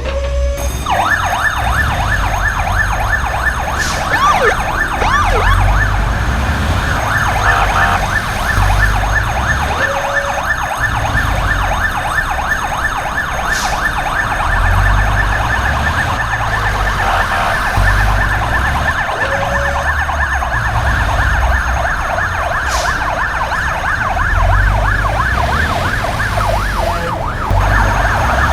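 Fire engine siren sounding continuously in a fast warbling yelp, with a low uneven rumble underneath.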